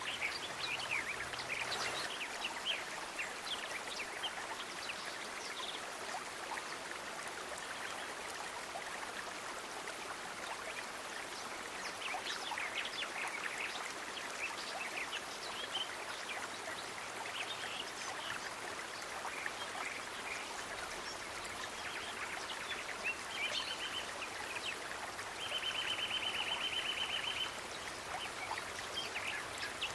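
Outdoor nature ambience: a steady wash of running water with many short bird chirps scattered through it. About three-quarters of the way in comes a rapid trill held at one pitch for about two seconds.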